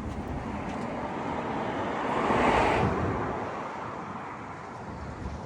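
A vehicle passing on the street: a smooth swell of road noise that rises to its loudest about two and a half seconds in and fades away, over steady outdoor background noise.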